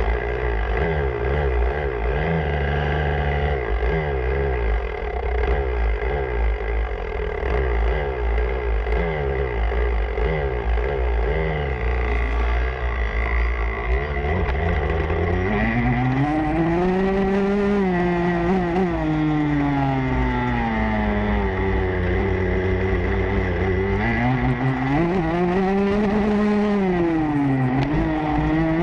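Motocross bike engine heard onboard. For about the first half the revs rise and fall in short, quick spurts. From about halfway it revs up and down in long swells as the throttle is worked.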